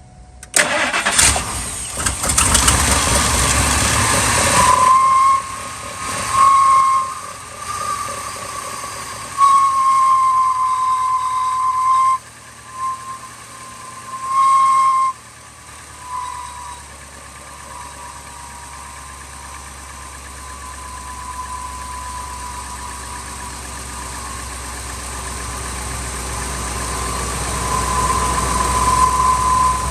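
2000 Ford F250's 5.4-litre two-valve V8 starting about half a second in, just after its idle air control valve and throttle body were cleaned, with a loud hissing rush for the first few seconds. Then it runs rough with a high whistle-like tone that comes and goes, the cold-start noise the owner expects to clear up. Towards the end it settles into a steadier, gradually louder idle.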